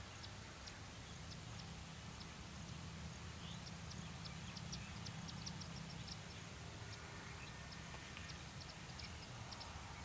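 Small birds chirping faintly: many short, high chips come irregularly through the whole stretch, over a low steady rumble.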